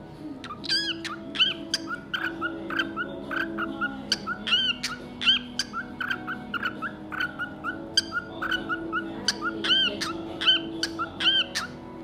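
Cockatiel giving short, high, chirping calls again and again, about two or three a second, over steady background music.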